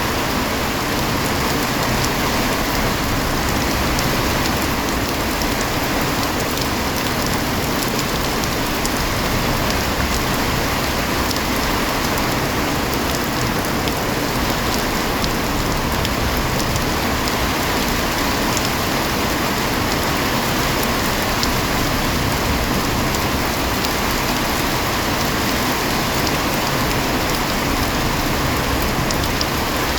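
Heavy rain falling steadily, an even hiss with scattered sharp drop ticks and no let-up.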